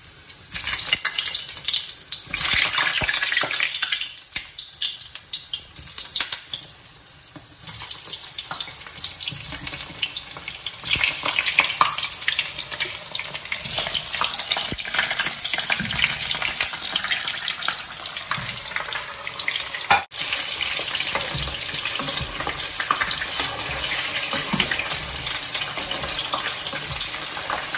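Small whole brinjals (eggplants) frying in hot oil in a wok: a dense, steady sizzling crackle. It eases off for a few seconds about four seconds in, then comes back up and holds.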